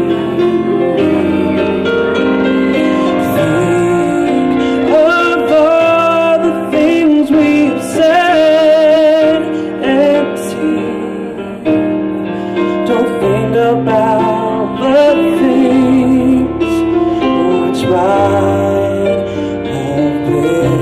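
A young male singer in a high, light voice singing a slow ballad with vibrato on held notes, over piano accompaniment.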